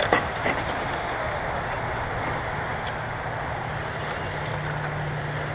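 A field of 1/10-scale electric touring cars with 17.5-turn brushless motors running on the track: a steady whir with faint whines that rise and fall as the cars speed up and slow down. A couple of sharp clicks come in the first half second.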